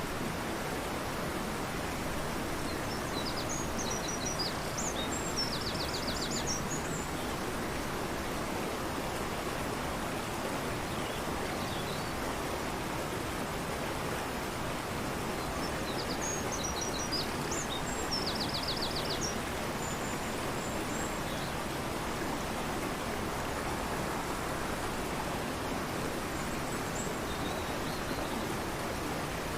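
A fast-flowing river rushing steadily, with a bird singing the same short high song twice, about three seconds in and again about sixteen seconds in, each phrase ending in a quick trill; a few fainter calls follow later.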